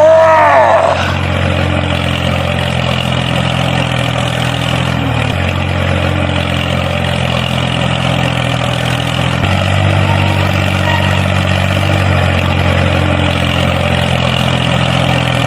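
Tractor engine running steadily at idle, its low hum shifting slightly twice. It opens with a short, loud voice-like cry in the first second.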